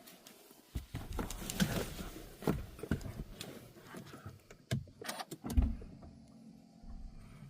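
Clicks, rustling and thumps of a car being opened and handled, with one heavy thump like a door shutting about five and a half seconds in, followed by a faint steady low hum.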